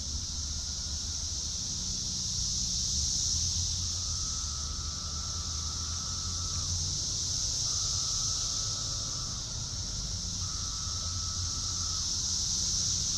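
Steady high-pitched insect chorus that swells and fades slowly, with a fainter lower drone coming in spells of two to three seconds over a low rumble.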